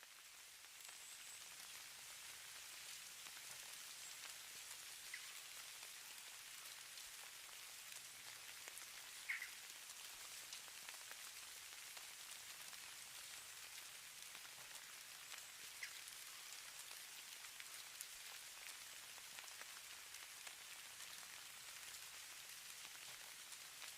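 Falling snow making a soft, steady hiss with scattered faint ticks of flakes or ice grains landing. It swells up just at the start, then holds even.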